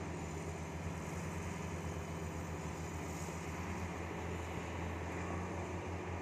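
Heavy-equipment diesel engine running steadily, a low even hum with no changes in pitch or load.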